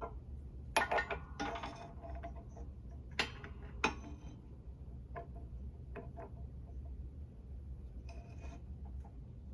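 Metal tools and metal parts clinking and clanking during hand work on a car's suspension: several sharp metallic knocks with brief ringing in the first four seconds, then lighter ticks and a short rattle near the end.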